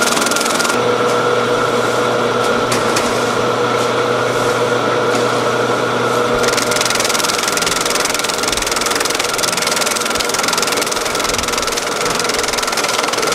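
Food-processing machinery running steadily with a constant whine and hum. About six seconds in, a rushing hiss joins it, like water spraying.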